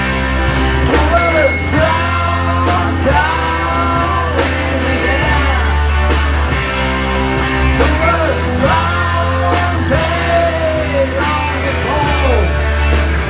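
Rock band playing, with a melody line of singing or guitar that bends up and down in pitch over a steady, heavy bass.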